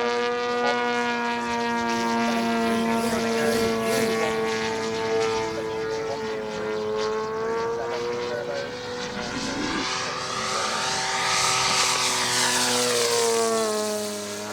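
35% OMP Hobby Edge 540 model aerobatic plane flying, its GP 123 two-stroke petrol engine with tuned pipes holding a steady note. Near the end it passes by, swelling in loudness, and the pitch drops as it goes.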